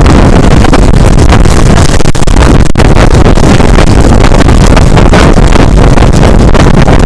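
Loud wind buffeting the microphone outside a passenger train's window as the train runs at speed, over the low, steady rumble of the train on the rails.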